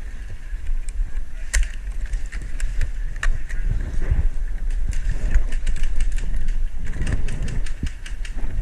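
Steady low rumble of wind and handling noise on a player-worn camera, with scattered sharp clicks and snaps through it.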